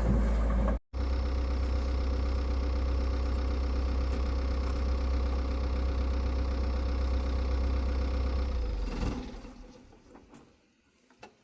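Excavator's diesel engine running steadily. The sound drops out for a moment just under a second in, then fades away from about nine seconds in.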